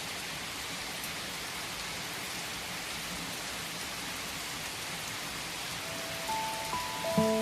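Steady rain falling, an even patter with no music over it. Soft piano notes come back in near the end.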